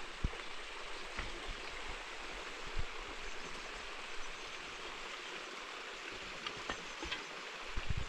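Steady rush of running water, with a few brief low thumps.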